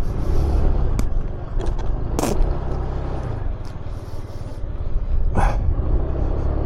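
Motorcycle engine running steadily, low and rumbling, with a few short clicks and scrapes over it.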